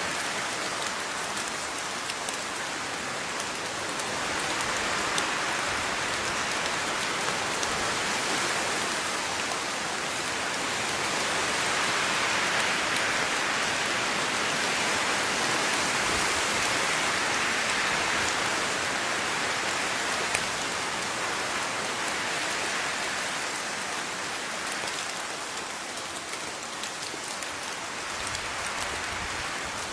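Steady rain falling on a surface, with individual drops ticking through a constant hiss; it swells slightly in the middle and eases a little near the end.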